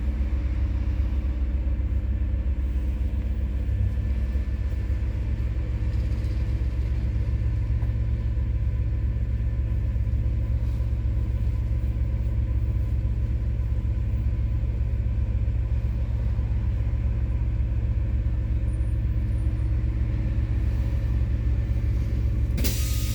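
MAZ-103.946 city bus's methane-fuelled engine running steadily with a low, even rumble, heard from inside the bus. A sudden loud hiss starts right at the end.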